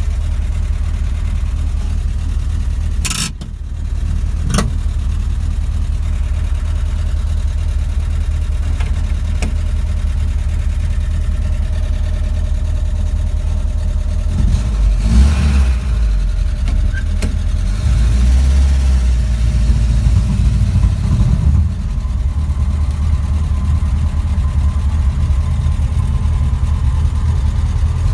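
1948 Willys truck engine running steadily, with two sharp clicks a few seconds in. From about halfway through it grows louder as the revs rise.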